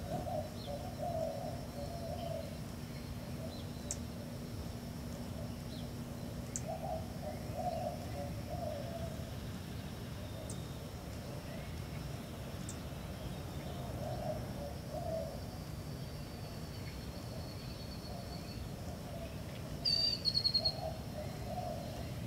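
Birds calling in the background: short low call phrases repeating every several seconds, with scattered brief high chirps and a short high trill near the end, over a steady low hum.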